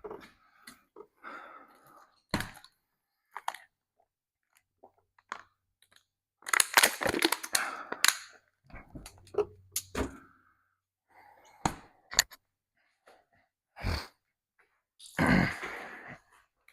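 Parts and packaging being handled: scattered knocks and clicks, with two longer bursts of clatter about seven seconds in and near the end.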